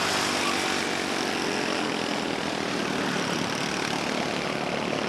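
Engines of a pack of small oval-track race cars running at full throttle together, steady and loud after building up just before.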